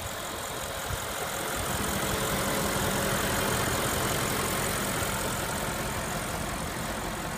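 2014 Audi S6's 4.0-litre TFSI twin-turbo V8 idling steadily under the open hood, swelling a little in the middle.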